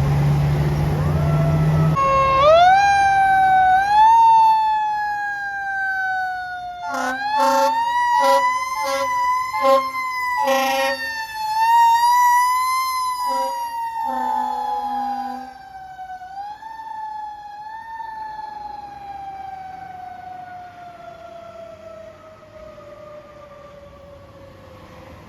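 Fire engine siren wailing in long, uneven rising and falling sweeps, with a string of short air-horn blasts in the middle. The siren then winds slowly down in pitch and fades as the truck moves off.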